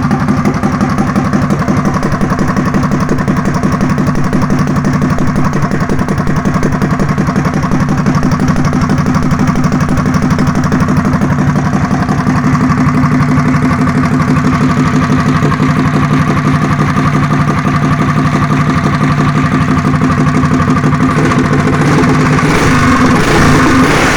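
Predator 212cc single-cylinder four-stroke engine on a mini bike idling steadily through an aftermarket exhaust pipe. It gets louder and rougher near the end as the revs pick up a little.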